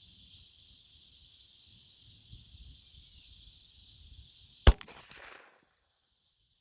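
A single shot from a Glock 19 Gen 5 9mm handgun about four and a half seconds in: one sharp, loud crack with a short echo trailing off after it. Before the shot, a steady hiss and a faint low wind rumble.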